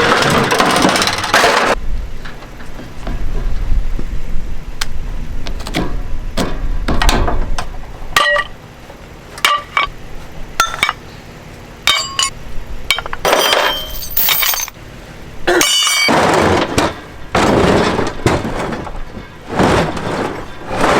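Junk being handled and sorted: a string of separate knocks, clanks and clinks, some with a high ring, between stretches of scuffing and rustling.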